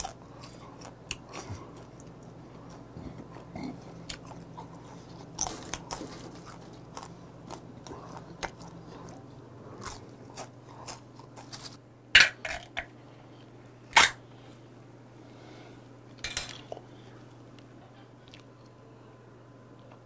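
Close-miked chewing and crunching of dry bar snacks, with many short crisp crunches and a few louder sharp ones about twelve and fourteen seconds in, over a low steady hum.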